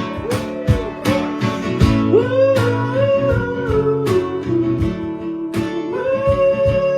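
Live acoustic guitars strumming a steady rhythm, with a kazoo playing a buzzy, wavering melody over them from about two seconds in, as an instrumental break.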